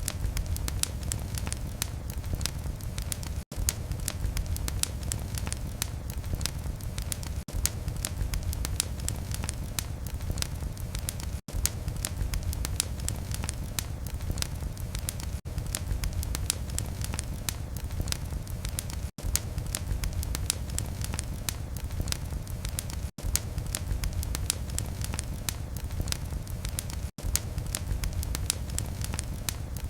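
Wood fire in a fireplace burning steadily: a low rumble of flames with constant sharp crackles and pops. The sound cuts out very briefly about every four seconds.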